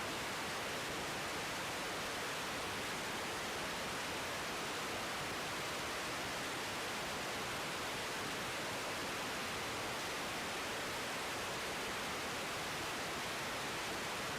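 Steady, even hiss that holds the same level throughout.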